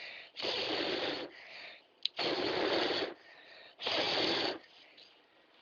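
A person's breath, blown out in three long puffs, each under a second long.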